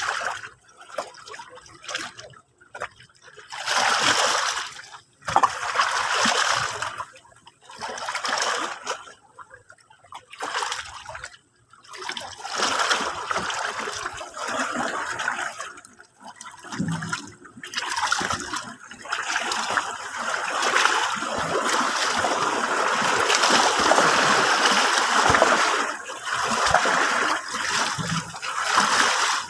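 Sea waves washing in on a shore: separate hissing surges of water every second or two, merging into a continuous wash about two-thirds of the way through.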